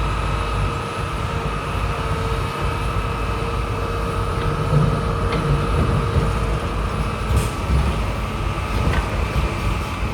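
Heavy diesel earthmoving machinery running steadily under load: a deep engine rumble with a constant mechanical whine.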